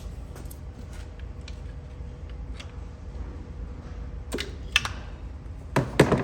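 Hands working at the engine of a BMW 325i as a stuck ignition coil is worked loose: scattered light plastic clicks, then a few louder knocks and rattles near the end, over a steady low hum.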